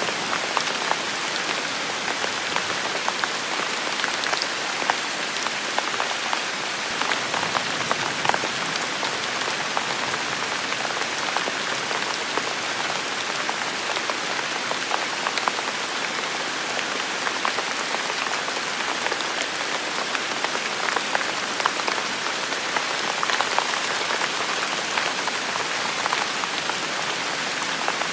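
Heavy rain falling steadily, an even hiss with many close, sharp drop impacts scattered through it.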